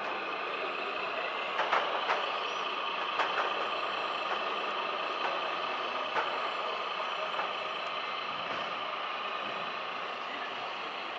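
Small electric motors and gearing of radio-controlled model construction machines whining steadily at two steady pitches, with scattered sharp clicks and knocks.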